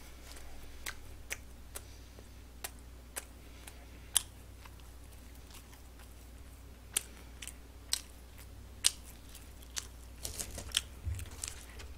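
Close-miked chewing of fast food: irregular sharp, wet mouth clicks and smacks over a low hum, with a quicker cluster of clicks near the end.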